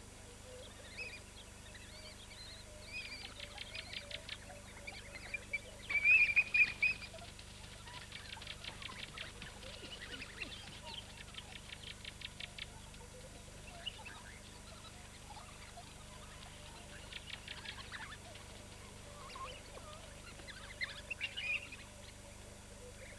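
Ambient bush soundscape of high-pitched animal chirps and fast trills, several callers overlapping. The loudest burst of chirping comes about six seconds in and another near the end.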